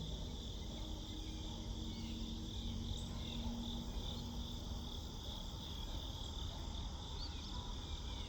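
Steady, high-pitched chorus of crickets trilling without a break. A faint low hum sits beneath it for the first few seconds, then fades.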